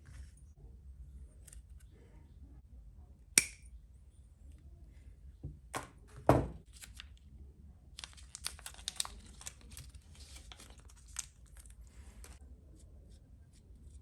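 Small kit parts and tools being handled on a workbench: a sharp click, then two knocks a little later, then a few seconds of rapid small clicking and rustling.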